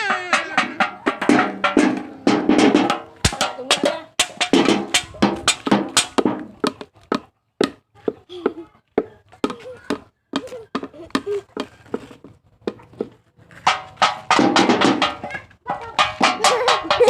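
Rapid percussive strikes in a rough rhythm, with voices singing over them at the start and again near the end.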